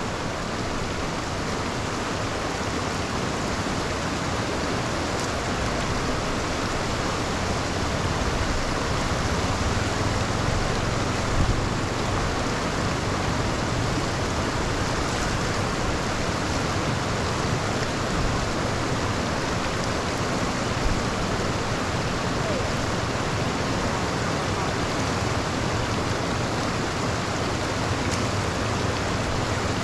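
Steady rush of water, typical of floodwater pouring into a cleared street drain in the rain, with a few brief knocks.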